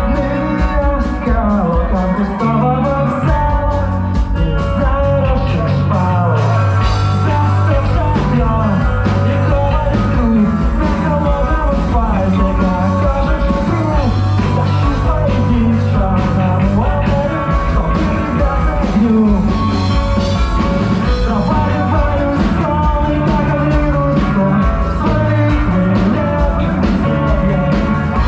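Live rock band playing a song, loud and steady throughout.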